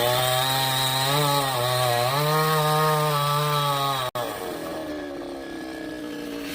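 Chainsaw engine running at high revs, its pitch sagging and recovering as it loads up in the cut. About four seconds in it cuts off abruptly for an instant, then runs on quieter.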